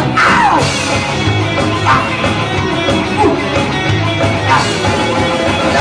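Rock band playing live: electric guitars, bass and drums, loud and dense, between sung lines of the song.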